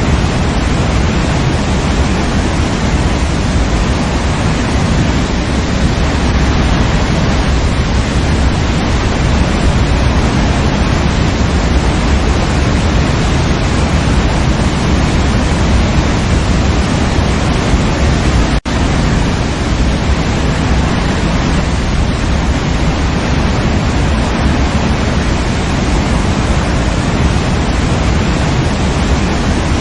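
Waterfall rushing in a steady, dense roar of falling water, with a split-second dropout about two-thirds of the way through.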